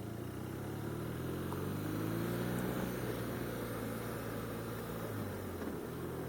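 BMW R1200RT's boxer-twin engine running under way, its pitch rising a little about a second or two in as it picks up speed, then holding steady, with road noise underneath.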